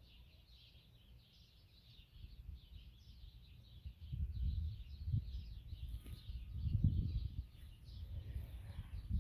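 Many small birds chirping continuously in a busy background chorus. A low rumble comes in about four seconds in and is the loudest sound from then on.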